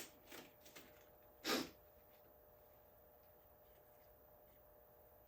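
Faint handling sounds of a latex balloon being worked onto a balloon expander: a light click, two soft ticks, then one short puff of noise about a second and a half in, followed by near silence.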